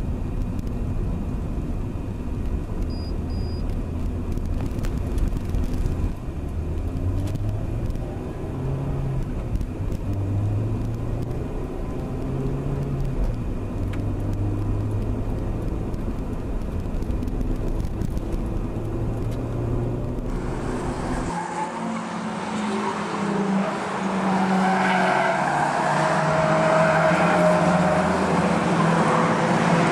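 Honda Integra Type R's four-cylinder engine heard from inside the car, running at low speed with its note stepping up and down. About 21 seconds in, the sound switches to engines heard from beside the track: louder and brighter, with rising revs.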